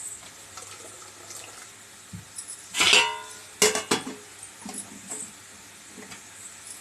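Steel kitchen vessels knocking and clinking, with one loud ringing clang about three seconds in and a couple of sharp knocks just after, while soaked ragi vermicelli is drained.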